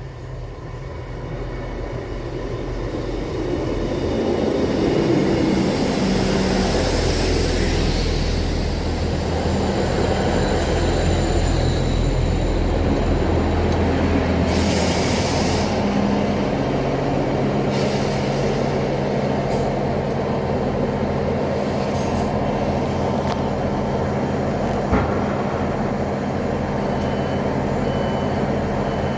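Class 159 diesel multiple unit pulling into the platform, growing louder over the first few seconds with a brief high squeal as it slows. Its diesel engines then run steadily as it stands, with a short hiss about halfway through.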